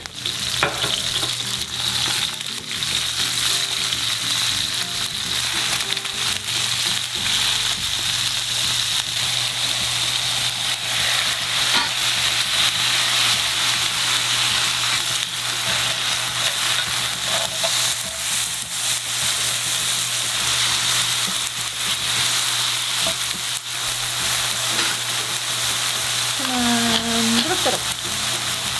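Haddock fillet and mushrooms frying in oil in a pan, a steady sizzle dotted with small crackles and pops.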